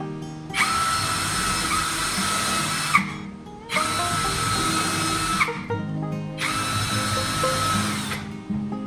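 A power tool running in three bursts of about two seconds each, starting and stopping sharply, with a steady whine through each run. Guitar background music plays throughout.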